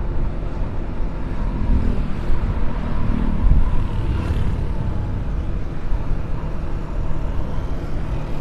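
Motorcycle engine running at steady cruising speed with road and wind noise rushing over the microphone while riding.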